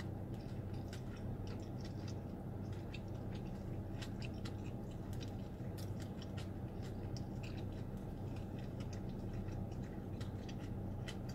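Close-up chewing and wet mouth clicks from someone eating noodles, with scattered small clicks that include a fork on the plate, over a steady low hum in the car's cabin.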